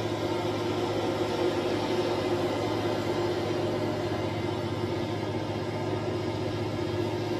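Steady vehicle rumble with a constant low hum, unchanging throughout.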